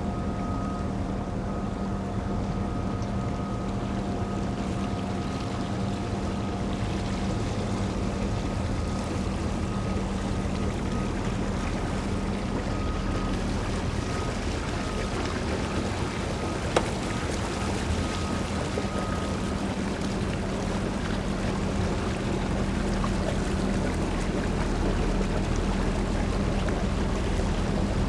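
Boat engine idling steadily with a constant hum, over wind and water noise; a single sharp knock about 17 seconds in.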